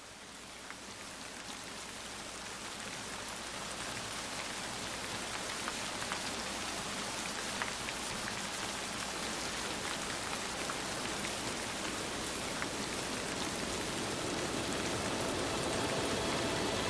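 Steady rain falling, with individual drops ticking on a surface; it fades in over the first few seconds. Soft music with held notes comes in near the end.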